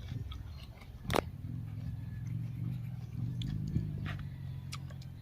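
A person chewing and biting crunchy raw vegetables, with a sharp crunch about a second in and smaller crunches after it, over a low steady hum.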